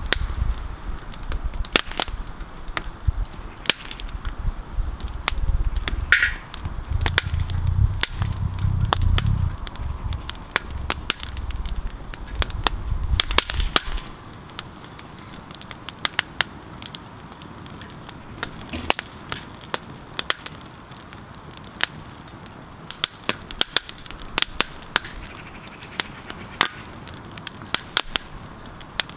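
Wood campfire crackling, with many sharp, irregular pops. A low rumble underneath stops about halfway through.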